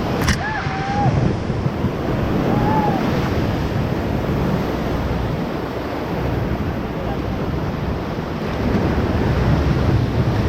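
Whitewater rapids rushing and splashing around a paddle raft, with wind buffeting the microphone. A couple of short whoops from the rafters sound in the first three seconds.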